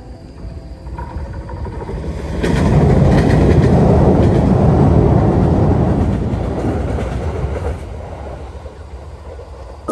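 A train passing by, its low rumble swelling from about a second in, loudest through the middle, then fading away.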